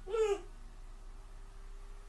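Dog whimpering: one short whine that rises and then falls in pitch, lasting about half a second at the start, followed by only a faint steady hum.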